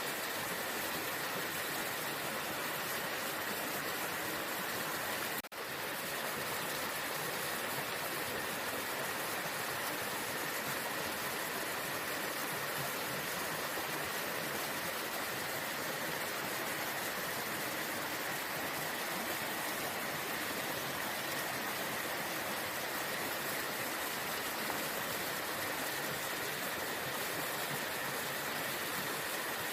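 Waterfall rushing steadily, an even wash of falling water. The sound drops out for an instant about five and a half seconds in, then resumes unchanged.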